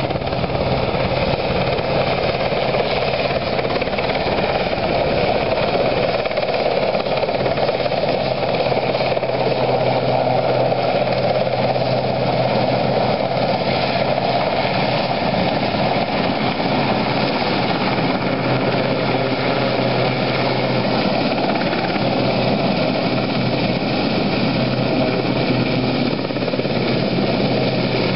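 Military helicopter running steadily close by, its rotors and turbine engine making a loud, even din with a low steady hum under it.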